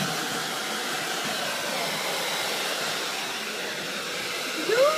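Handheld blow dryer running steadily. Near the end comes a brief cry that rises and then falls.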